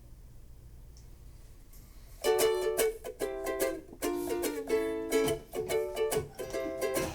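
Faint room tone, then about two seconds in a strummed string instrument starts playing chords in a steady, bouncy rhythm: the song's instrumental introduction.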